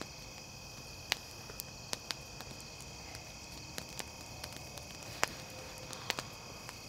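Wood campfire crackling with scattered sharp pops, over a steady high-pitched chorus of insects.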